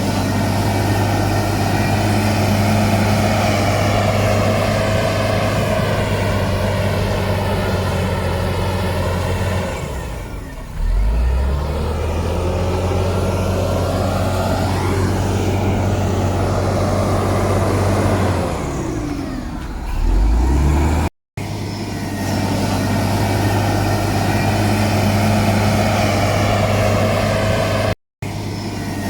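Heavy diesel engine of earth-moving machinery running steadily under load. Its pitch drops and climbs again about ten seconds in and once more near twenty seconds. The sound cuts out for an instant twice in the last third.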